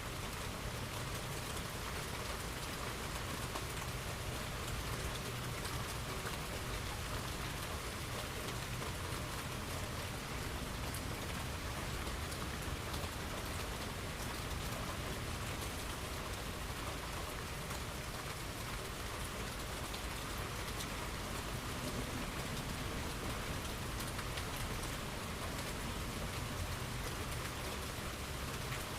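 Steady rain falling on the ground, an even hiss with no distinct thunderclaps.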